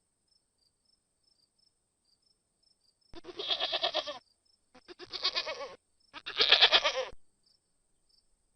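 Goat bleating three times, each call about a second long and wavering, beginning about three seconds in.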